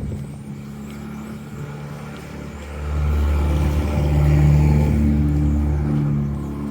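A motor vehicle engine running close by on a snowy street, growing louder from about three seconds in and easing off a little near the end, like a car or truck passing slowly.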